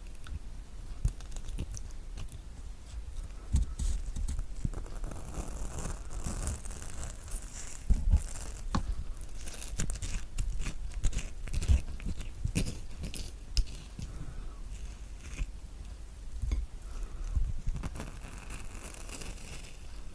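Spoon scooping the flesh out of a halved kiwi: irregular wet scraping and squelching against the fruit's skin, with scattered soft knocks.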